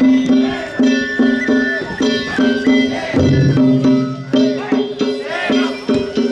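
Danjiri festival music (narimono): drums and gongs struck in a fast, even rhythm, with a high flute-like melody above.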